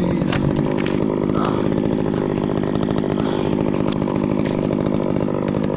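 Stihl chainsaw running steadily at high speed, cutting wood in a dead sugar pine.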